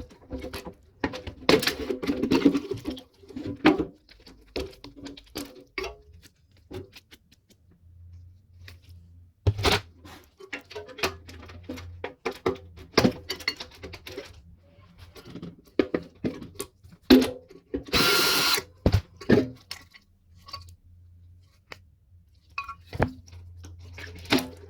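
Tools working on a metal microwave casing: repeated knocks, clicks and clatter of metal parts, with a brief burst of a power tool about two thirds of the way through.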